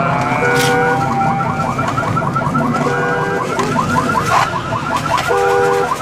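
Car alarm sounding: a fast warbling tone cycling several times a second, with a separate steady two-note beep cutting in briefly every couple of seconds.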